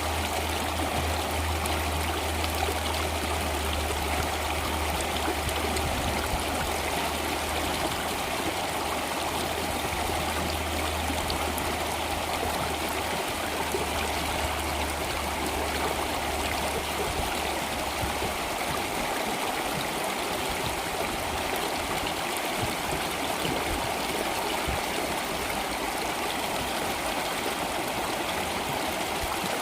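Flowing water of a stream running steadily, with a low steady hum underneath that fades out about two-thirds of the way through.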